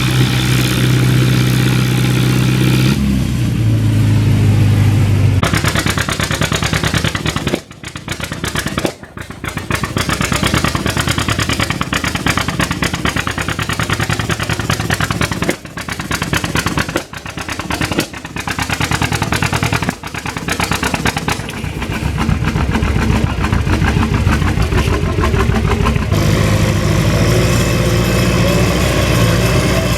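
Antique farm tractor engine running hard under load, with its exhaust firing rapidly for about twenty seconds and dipping briefly several times. It settles to a steadier run near the end.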